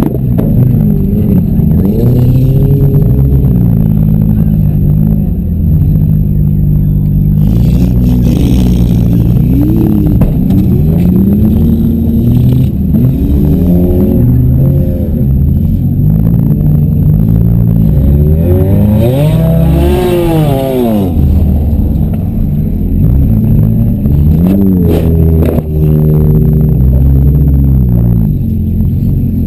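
Demolition derby car engines revving up and down, several at once, with metal scraping and clattering and a few sharp knocks near the end.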